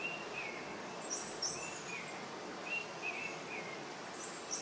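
Outdoor ambience: a steady hiss with small birds chirping, short downward-sliding notes repeated in little groups every second or so.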